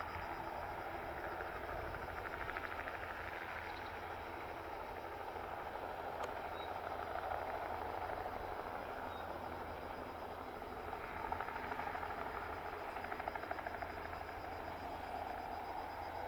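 Bell 206B-3 JetRanger III helicopter running, its Allison 250 turboshaft giving a steady high whine over a rapid, even beat from the rotor, swelling in loudness at times.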